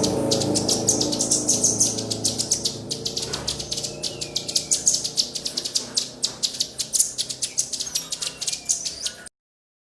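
Rapid, repeated high chirps and calls of small songbirds, as used in a bird-song training recording. A low steady hum sits underneath at first and fades over the first few seconds. The sound cuts off suddenly near the end.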